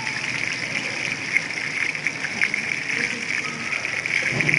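Chicken lollipops deep-frying in hot oil: a steady sizzle with many small crackles and pops.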